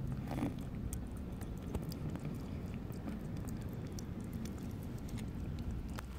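A kitten chewing and eating food, with scattered small clicks, over a steady low rumble.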